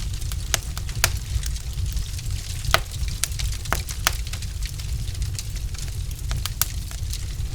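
Wood fire in a fireplace crackling: irregular sharp pops and snaps from the burning logs, some louder than others, over a steady low rumble.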